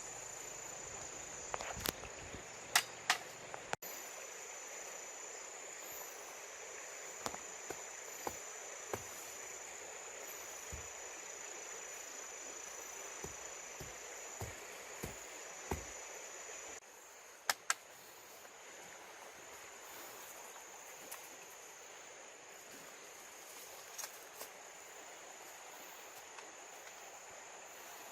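Steady high-pitched chirring of insects, with scattered sharp knocks now and then.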